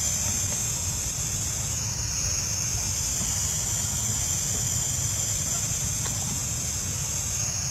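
Insects droning steadily at a high pitch over a low rumbling background.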